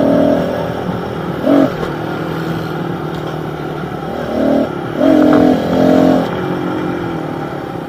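Small pit bike engine running steadily while riding, with several short bursts of louder throttle: briefly at the start, about a second and a half in, and twice more around the middle.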